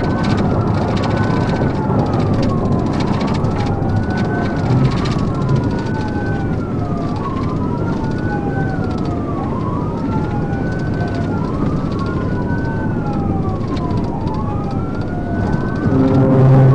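Police car siren on wail, rising quickly and falling slowly about every two and a half seconds, over a steady road rumble. A horn-like blast starts near the end.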